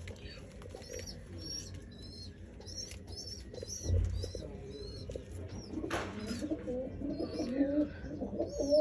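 Domestic pigeons cooing, the low cooing growing stronger over the second half, with short high chirps repeating through the first half and a dull thump about four seconds in.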